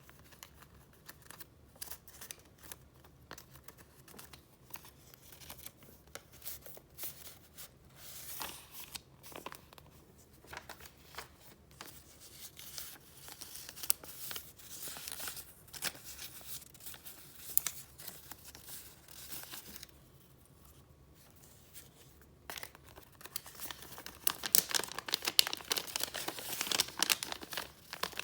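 Paper being handled and flipped through, rustling and crinkling with scattered short crackles. It goes quieter about twenty seconds in, then a busier, louder spell of crinkling follows near the end.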